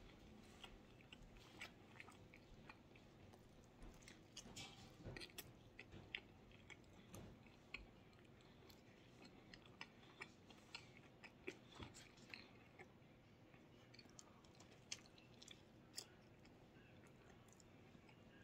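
Faint close-up chewing of sausage pan pizza, with scattered small wet mouth clicks.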